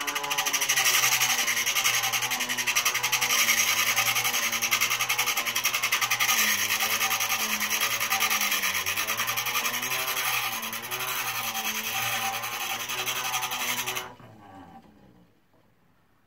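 Vintage hand-crank grinder being cranked: its gears whir with a pitch that rises and falls with the cranking speed, over a dense rasping hiss. It stops sharply about fourteen seconds in, with a short fainter run-down after.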